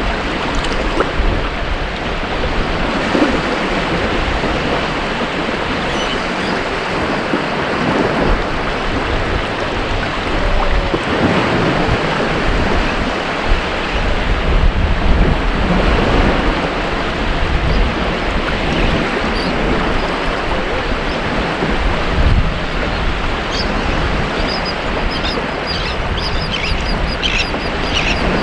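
Ocean surf breaking on a beach: a steady wash of waves that swells and eases every few seconds. A few faint high chirps come near the end.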